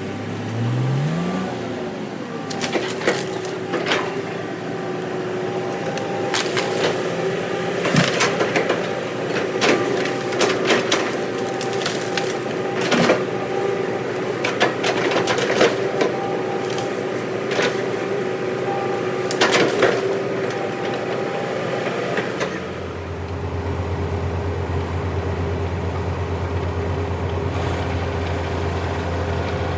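Heavy earthmoving machine's diesel engine running, with many sharp knocks and cracks through most of the stretch. About three-quarters of the way through, the sound changes to a steadier, deeper engine drone with few knocks.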